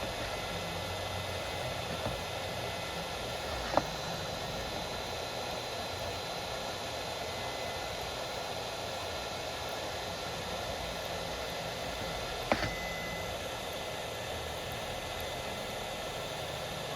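Steady hiss with a faint high whine, broken by a few light clicks, the sharpest about four seconds in and another near the thirteen-second mark.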